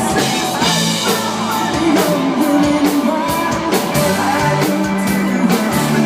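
Live rock band playing loudly, with electric guitar and a drum kit keeping a steady beat.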